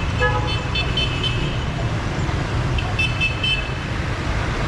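Busy city street traffic: engine and tyre rumble runs steadily while car and scooter horns toot in short repeated beeps, a flurry in the first second and another about three seconds in, with one lower-pitched horn note near the start.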